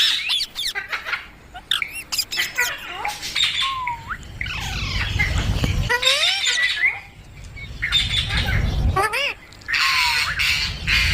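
Green ringneck parrot squawking and whistling in a run of quick, rising and falling calls, with a low rumble under it at times.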